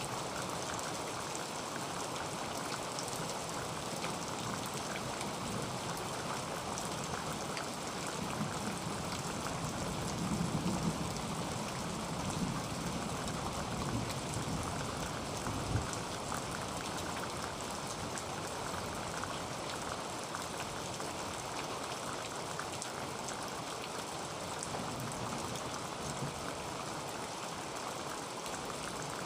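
Heavy rain falling on a tin roof: a steady hiss thick with the ticks of single drops striking the metal. A few louder low thuds come near the middle.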